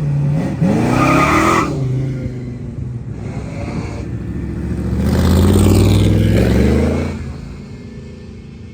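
A car engine revving: a quick rise in pitch about a second in, then a louder, longer burst of engine sound from about five to seven seconds in that dies away near the end.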